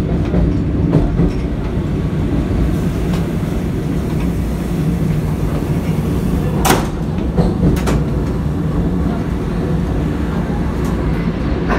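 Steady low rumble of wheels on track inside a moving Vande Bharat Express (Train 18) electric multiple unit coach. A sharp knock comes about seven seconds in, and a smaller one a second later.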